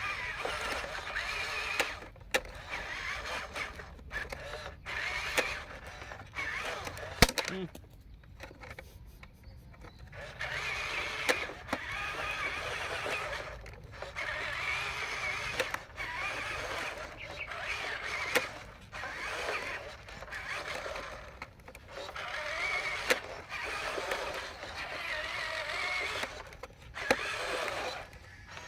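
Small electric motors and plastic gearboxes of Huina radio-controlled construction models running with a wavering whine in repeated runs of a second or several, stopping and starting, with scattered clicks and knocks of the plastic parts, one sharp knock about seven seconds in.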